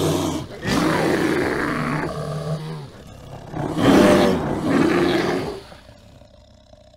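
A bear roaring in three long, rough calls: the first is just ending at the start, the second lasts about two seconds, and the loudest comes about four seconds in. The sound then fades away.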